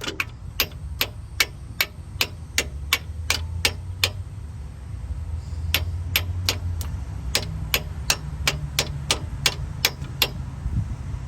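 Light, evenly spaced hammer taps, about two and a half a second, driving a part into place: one run of about ten taps, a pause of under two seconds, then another dozen taps, over a low steady hum.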